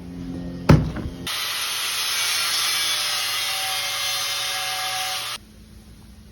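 A sharp knock, then an electric welder's arc hissing and sizzling steadily for about four seconds before it stops abruptly, likely welding the broken turbo pipe flange.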